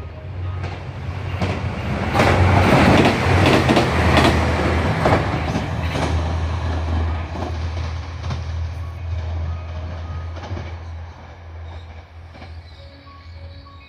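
KiHa 187 diesel railcar on the Super Matsukaze limited express running through a station at speed. Its engine rumbles low and its wheels clatter over the rail joints, loudest a few seconds in, then the sound fades away. Faint background music comes in near the end.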